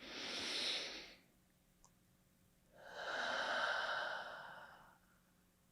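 A person taking a slow deep breath: a breath in lasting about a second, then after a pause a longer breath out, like a sigh.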